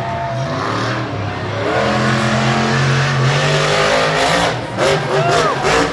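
Monster truck engine revving hard, its pitch swinging up and down between throttle blips and a held high rev, with a run of sharp cracks near the end.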